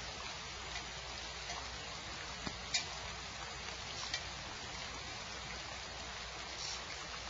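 Steady hiss of rain falling on the nest box, with a few sharp ticks, the loudest about a third of the way in.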